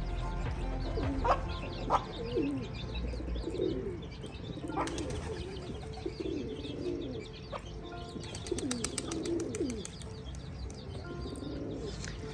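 Domestic pigeons cooing over and over, with short high chirps from chicks now and then.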